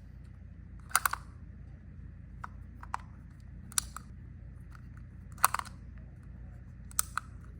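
Hard plastic toy pieces clicking and clacking as they are handled, about seven separate sharp knocks with a double clack near the start, the middle and the end, over a steady low hum.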